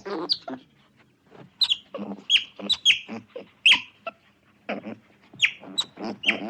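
Repeated short, high-pitched animal calls, each starting sharply and dropping quickly in pitch, about two or three a second in an irregular run.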